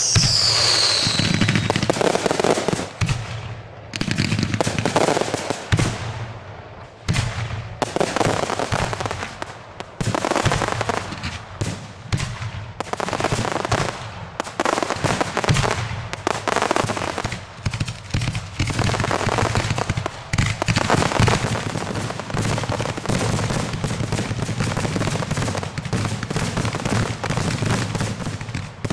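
Fireworks display: a falling whistle right at the start, then aerial shells bursting one after another, the bangs coming almost continuously in the second half.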